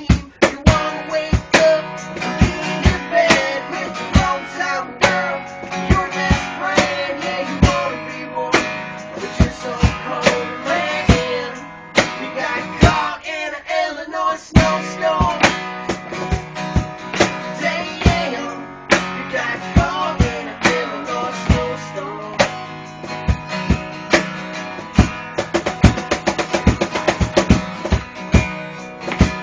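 Country band playing an instrumental passage on acoustic guitars and cajon: a picked guitar melody over strummed chords, with regular cajon hits keeping the beat.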